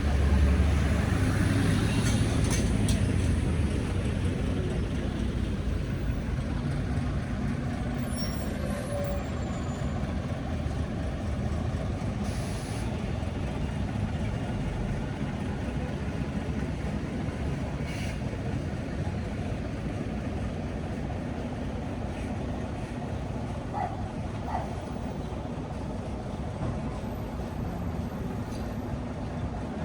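Street noise with a heavy vehicle, bus or truck, rumbling past at the start, then a steady background of traffic.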